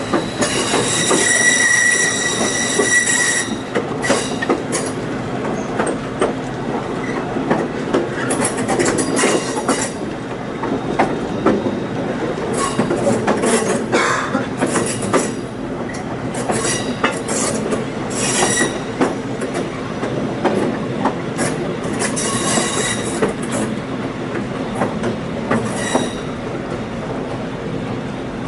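Passenger train cars riding the rails, heard from aboard: a steady rumble and clatter with wheels squealing on curves. A long, high, steady squeal comes about a second in, and shorter squeals recur every few seconds after it.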